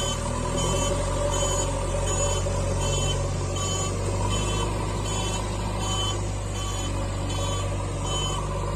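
Toy vehicle's electronic sound effect: a steady engine rumble under a beeping alarm, about two short beeps a second.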